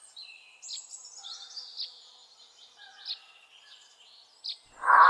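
Small birds chirping and twittering in quick, high-pitched notes, some sliding downward. Music comes in near the end.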